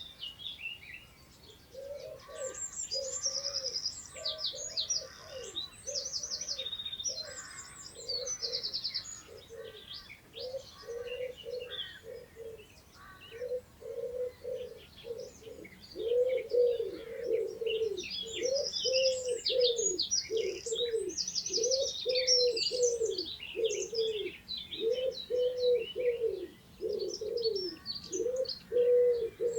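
Wild birds calling in the countryside: high chirps and trills from songbirds, over a low cooing note repeated steadily, about one or two a second, that grows louder about halfway through.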